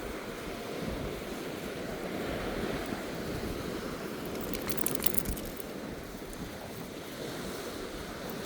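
Surf washing on a beach, with wind buffeting the microphone and a brief cluster of sharp clicks about halfway through.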